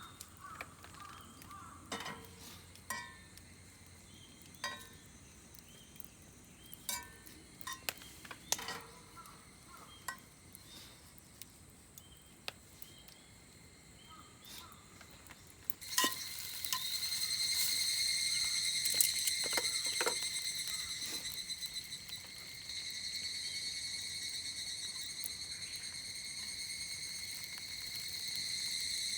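Light clinks and taps of metal cookware and utensils, scattered over a faint sizzle. About halfway through, a louder, steady, high-pitched insect drone sets in and keeps going.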